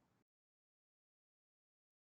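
Near silence: the audio is cut to digital silence, with the last of a man's speech fading out in the first quarter second.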